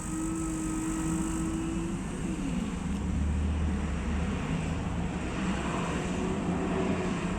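Coffee vending machine working as it prepares a hot chocolate: a steady motor whine that winds down and stops about two seconds in, followed by a lower hum.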